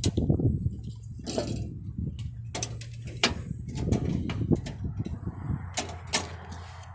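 Scattered metallic clicks and clunks, as of a parked Ford 3930 tractor's levers and seat being handled, over a steady low hum.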